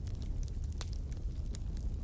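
Wood fire in a fireplace crackling: a steady low rumble of the flames with irregular sharp pops and snaps.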